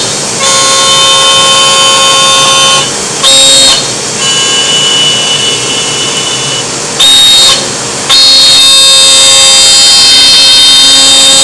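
Laguna CNC router's spindle running with a steady high-pitched whine over cutting noise. The loudness drops and comes back several times, around a third of a second in, near three seconds, and from about four to eight seconds.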